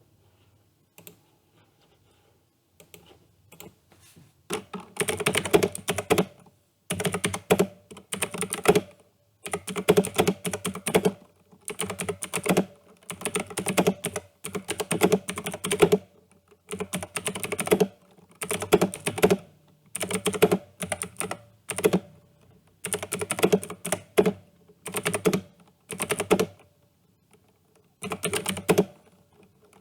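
A new computer keyboard being typed on: a few scattered keystrokes at first, then fast bursts of key clicks, each a second or two long, with short pauses between.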